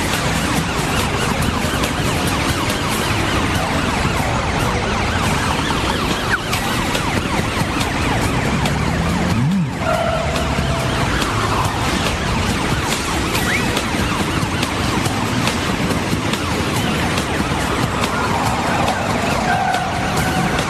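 Cartoon emergency-vehicle sound effects: a steady, dense rushing of vehicle noise with a faint siren wail gliding up and down. The rushing dips briefly about halfway through.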